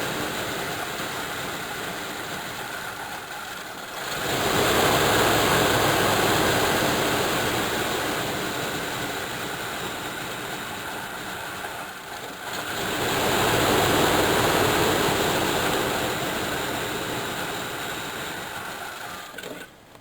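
1985 Chevrolet Caprice's 305 cubic-inch small-block V8 running, its throttle blipped twice, about 4 seconds in and again about 12 seconds in. Each time the revs rise sharply and then slowly settle back. It is idling rough and will not keep running without the blips, which the owner puts down to incorrect idle mixture screws or a bad engine mount.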